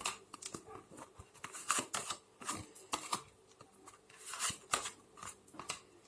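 Tarot cards being handled and shuffled: irregular soft swishes and rubs, several a second.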